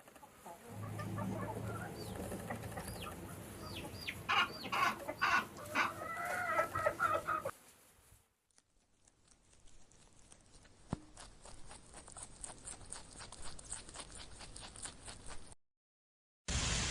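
Chickens clucking, with a burst of louder, sharper calls in the middle. They cut off and are followed by a fainter stretch of rapid clicks.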